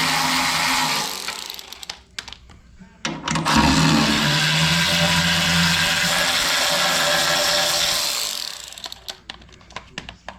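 Power drill running to spin out the 13 mm bolts holding the wood chipper's chute. It runs briefly, stops with a few clicks, then runs again for about five seconds before stopping near the end, with light clicks of the tool and bolts after it.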